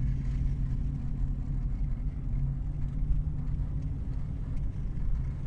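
2007 Cadillac Escalade being driven, with a steady low engine and road rumble and no wheel-bearing hum: the newly replaced front wheel bearing is quiet.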